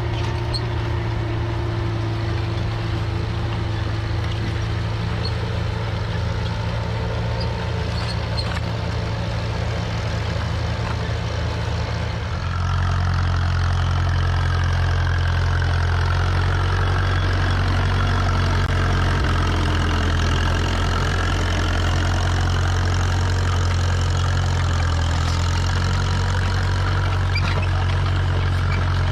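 Tractor engine running steadily with a deep hum; about twelve seconds in the sound steps up louder and deeper and holds there.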